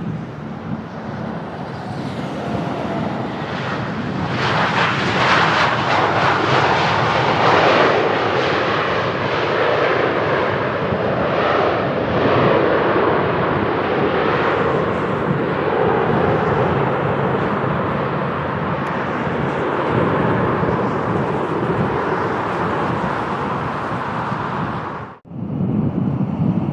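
Delta Boeing 737 jet airliner passing close on its approach to land. Its engine noise swells about four seconds in and stays loud, easing only slowly, over a steady rumble of wind on the microphone. The sound cuts off suddenly near the end.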